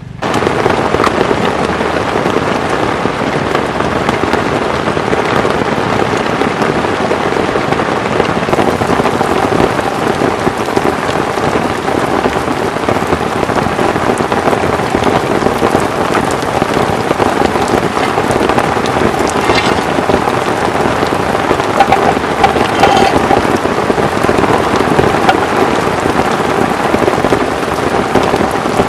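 Heavy rain falling steadily: a dense, even hiss of drops hitting a surface.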